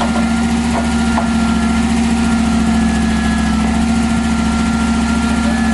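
LS1 V8 engine in a rock buggy idling steadily at an even pitch, running on its first start after being pulled, adjusted and reinstalled.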